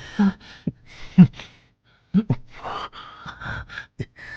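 A man's voice gasping and breathing heavily in short breathy bursts, some voiced, with a few sharp clicks between them.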